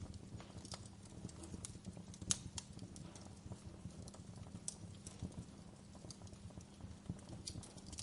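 Log fire crackling: irregular sharp pops and snaps of burning wood over a low steady rumble, with one louder pop a little over two seconds in.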